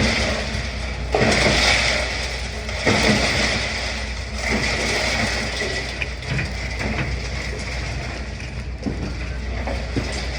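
Demolition excavator's diesel engine running steadily, with surges of crunching and scraping from rubble being broken and moved: about a second in, near three seconds, and at about four and a half seconds.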